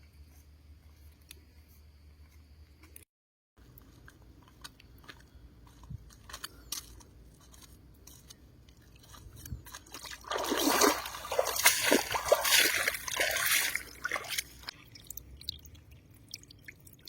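Faint clicks and squelches in water, then about ten seconds in, four seconds of loud splashing and sloshing with crunching.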